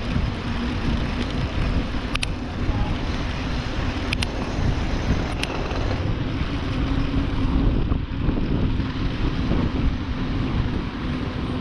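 Steady rush of wind and traffic noise heard while riding a bike through city streets, under a low steady hum, with three short sharp clicks in the first half.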